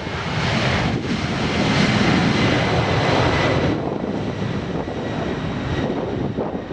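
Jet airliner engines at takeoff power, a loud steady rush with a faint high whine, strongest for the first three and a half seconds and then easing somewhat.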